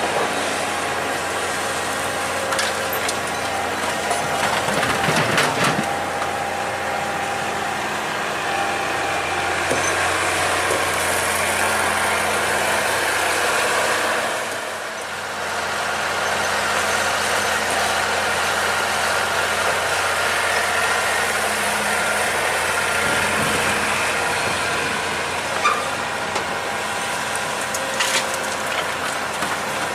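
Excavator's diesel engine running steadily, dipping briefly in level about halfway through, with a few sharp clicks.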